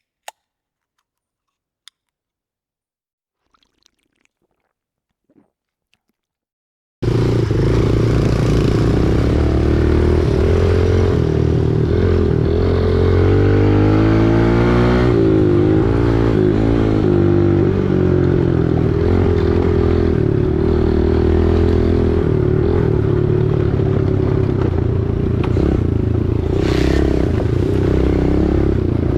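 A few faint clicks over near silence, then small four-stroke single-cylinder dirt bike engines cut in suddenly and run steadily at cruising speed. Around the middle, two engine pitches cross and drift apart.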